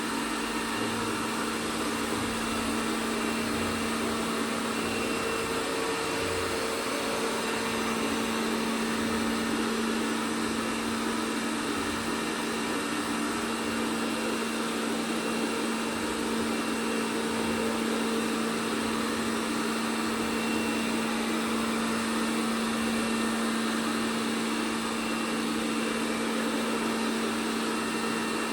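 ELARI SmartBot Lite SBT-002A robot vacuum cleaner running, a steady hum of its suction motor and brushes with a constant low tone.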